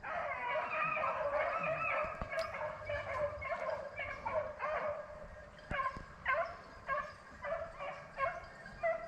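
A pack of rabbit hounds baying on a rabbit's track: a chorus of overlapping voices for the first few seconds, then separate bays about two a second.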